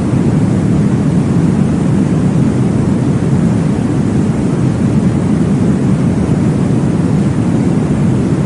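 Womb-sound white-noise track: a steady, deep whooshing noise with most of its weight low down, unbroken throughout.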